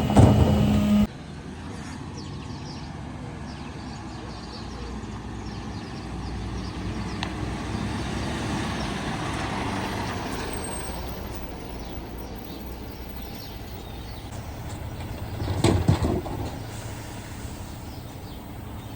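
Mercedes Econic refuse truck running steadily, with a louder stretch that cuts off abruptly about a second in, a gentle swell in level around the middle, and a short louder noisy burst about sixteen seconds in.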